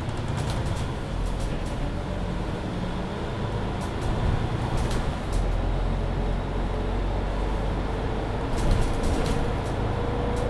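Mercedes-Benz Citaro C2 hybrid city bus driving along, heard from inside: a steady low drivetrain rumble and road noise with scattered light rattles. A faint whine rises slightly in pitch over the last few seconds.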